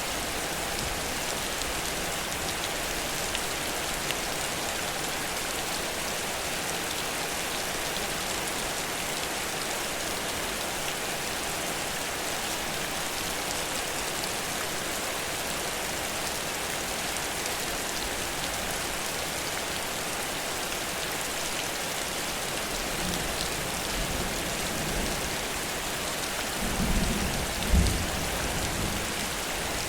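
Heavy rain pouring steadily. Near the end a low rumble of thunder swells and fades.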